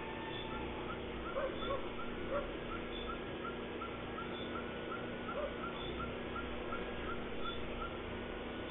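An animal's call: a short note repeated about three times a second over a steady low hum, the strange noise heard in the village.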